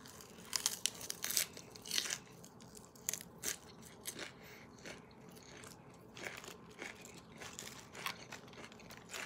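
Crisp lettuce crunching as a mouthful of salad is bitten and chewed: a string of short crunches, thickest in the first two or three seconds, then sparser.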